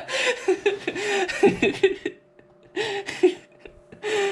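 A man laughing in short breathy bursts, with a brief pause in the middle.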